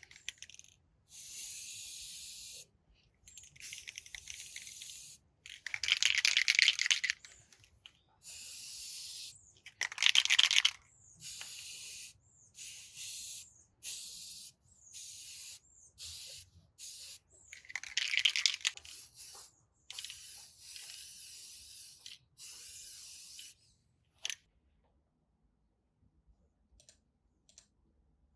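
Short, repeated bursts of pressurised spray hiss, about a dozen, each a second or so long, starting and stopping sharply. A few louder bursts sound rougher and scratchier. After these it falls quiet, with a few faint clicks near the end.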